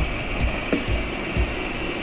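Small electric motor of an RC crawler truck whining steadily, with soft low thumps about every two-thirds of a second.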